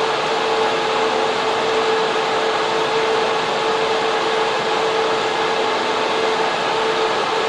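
Data center server room fans and air cooling running: a steady, loud rush of air with a constant mid-pitched tone under it.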